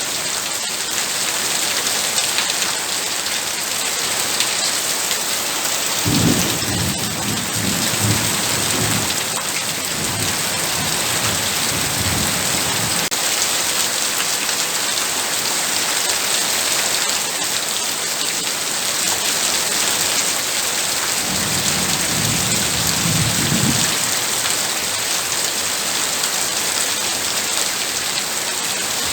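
Heavy rain pouring steadily, with two low rolls of thunder: one starting about six seconds in and rumbling for several seconds, another about twenty-one seconds in.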